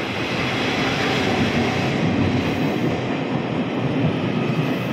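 A train runs close past a station platform on the near track, making a steady rumble and clatter of wheels on the rails. It gets louder over the first second or so and then holds.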